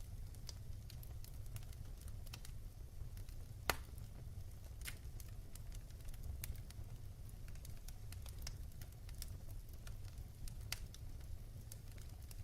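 Wood fire crackling in a fireplace: scattered sharp pops and snaps over a steady low rumble, with one louder pop a few seconds in.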